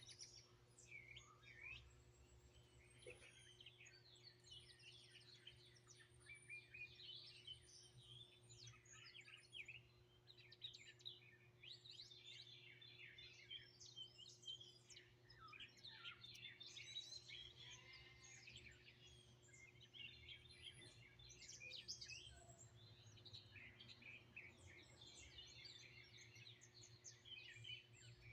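A chorus of several songbirds singing and chirping at once, faint and overlapping, with many quick chirps and trills, over a steady low hum.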